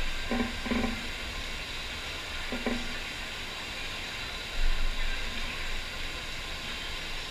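Steady rushing hiss of water jetting over a FlowRider surf machine's wave. Short voice-like calls come twice in the first three seconds, and a low thump comes a little past halfway.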